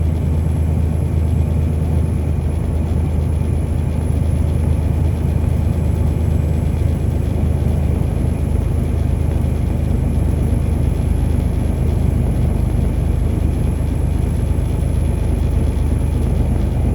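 A car driving at a steady speed: a steady low rumble of tyres and engine that doesn't change.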